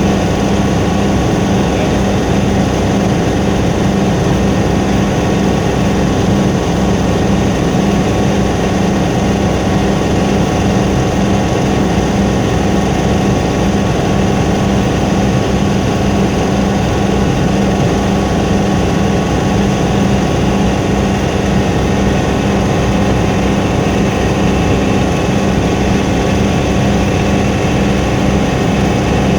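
Helicopter engine and rotor running steadily: a loud, constant drone with a strong low hum and steady tones above it.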